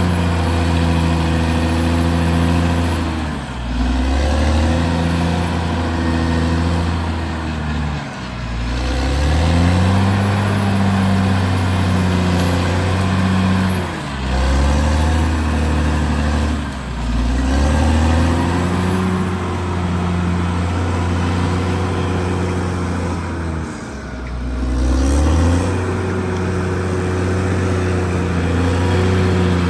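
Caterpillar D6R XL bulldozer's diesel engine running hard, its note sagging and picking back up about five times as the engine speed changes while it works.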